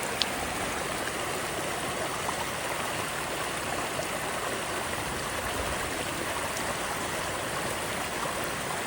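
Mountain stream flowing over rocks in a steady, even rush of water, with a sharp splash or tick about a quarter of a second in and another near a third of the way through.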